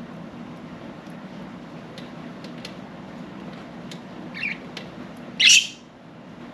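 Budgerigar giving a short call about four seconds in, then a single loud, harsh squawk about a second later, with a few light ticks scattered before it over a steady low hum.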